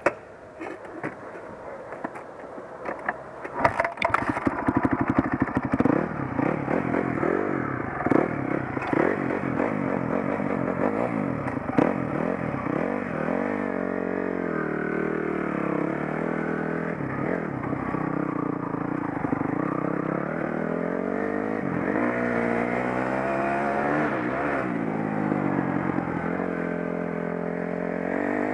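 Dirt bike engine under way, its pitch rising and falling over and over as the throttle is opened and closed. It is quieter with a few clicks at first and gets loud about four seconds in.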